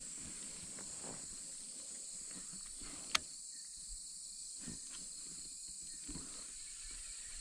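Steady high-pitched chorus of insects, with one sharp click about three seconds in and a few faint knocks.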